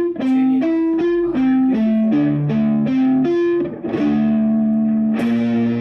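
Samick Les Paul-style electric guitar played through an amplifier: a quick run of picked single notes, then a chord struck and left to ring about four seconds in, and another struck near the end.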